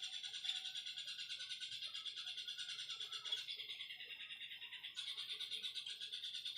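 White-rumped shama (murai batu) calling, a fast run of harsh repeated notes, about eight a second, that shifts in character about five seconds in.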